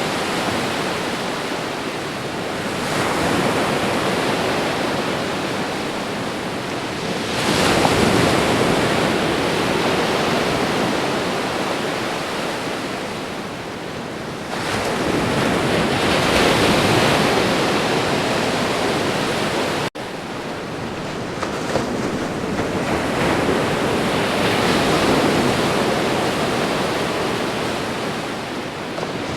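Ocean waves breaking and washing in, a steady rush of surf that swells and eases every few seconds. A momentary gap in the sound comes about two-thirds of the way through.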